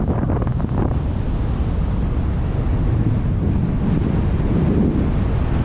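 Wind rushing over the microphone in flight under a tandem paraglider: a steady, loud, low rumbling buffet of airflow.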